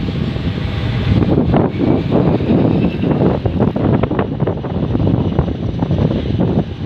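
Aircraft engines running loud, with gusty wind or engine blast buffeting the microphone into a rough, fluttering rumble.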